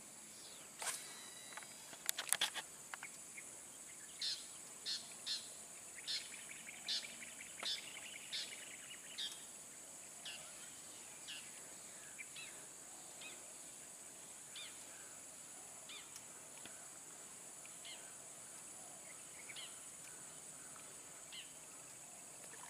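A bird calls in a run of short, sharp chirps, about two a second, starting about four seconds in and thinning out over the following seconds, over a steady high-pitched hiss. A few sharp clicks come in the first three seconds.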